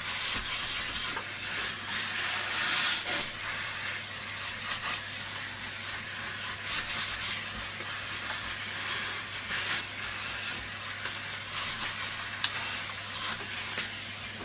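Vacuum cleaner running steadily with air hissing through the nozzle as it is run over a part to clean off dust, with a few light knocks of the nozzle against the part.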